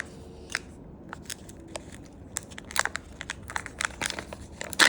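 Kinder Joy toy packaging being opened by hand: plastic crinkling and tearing in irregular crackles, with the loudest one near the end.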